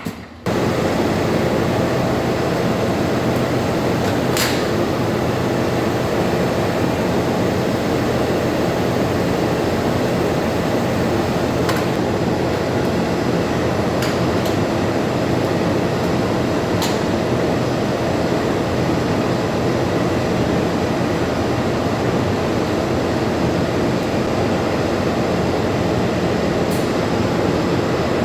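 Loud, steady machine drone with a low hum, starting abruptly just after the sound opens, with a few faint clicks over it.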